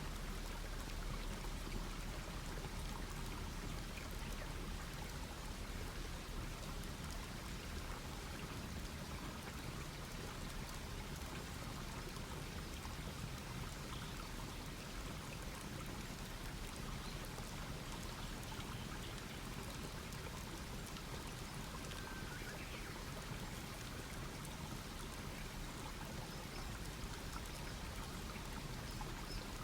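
Wood campfire burning: a steady hiss with faint scattered crackles.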